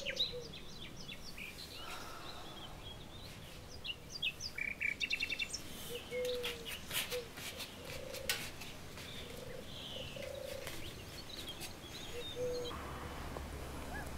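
Birds chirping, with short high calls and quick trills, and a lower short call repeated every second or two, over a steady low background.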